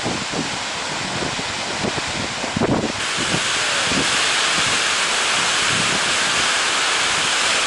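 Wind buffeting the microphone with a steady rushing noise; about three seconds in it jumps to a louder, brighter, even hiss.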